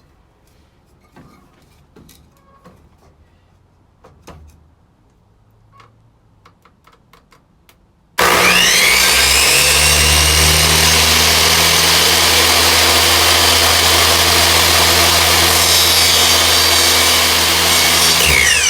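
A few faint handling clicks and taps, then about eight seconds in an electric power tool starts abruptly and runs steadily at full speed for about ten seconds, trimming wood. It is switched off near the end, and its motor winds down in falling pitch.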